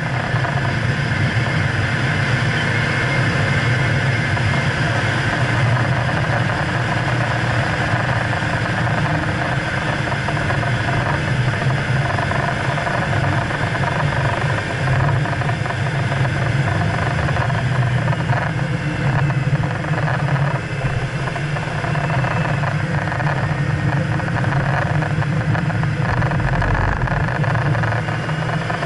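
A 2011 BMW E92 M3's V8 engine running hard as the car laps a track at speed, steady and loud, mixed with road and wind noise.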